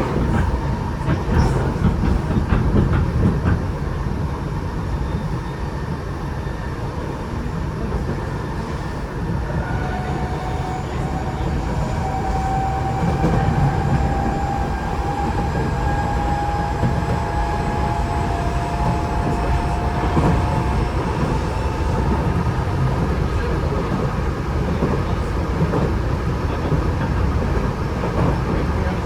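Tokyo Metro 8000 series electric train running between stations, heard from inside the car: a steady rumble of wheels on rail. Around the middle a thin whine from its Mitsubishi IGBT-VVVF traction equipment comes in and rises slightly in pitch for about ten seconds.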